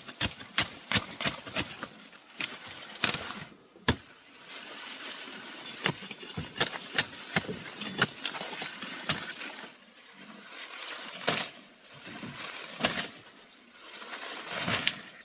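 Irregular sharp knocks and cracks, several a second in the first half, fewer later, with rustling between them.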